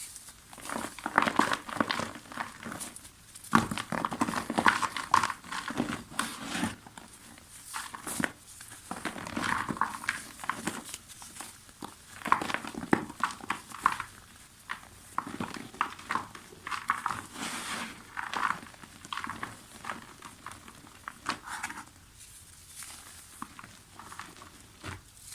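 Soft mud texture being crumbled, in irregular bursts of crunching and crackling with brief pauses between, growing quieter near the end.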